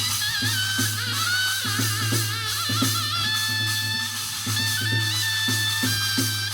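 Korean shamanic gut music: a wavering wind-instrument melody over regular drum strokes, with a metallic shimmer of bells or cymbals.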